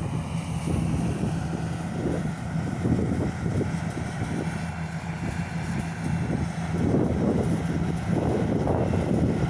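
Engine running steadily with an even low hum, with rough gusts of wind on the microphone over it.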